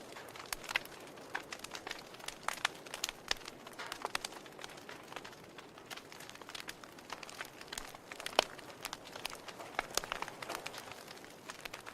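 Wood fire in a fireplace crackling: irregular pops and snaps of burning logs over a soft hiss, with one sharp, louder pop about eight seconds in.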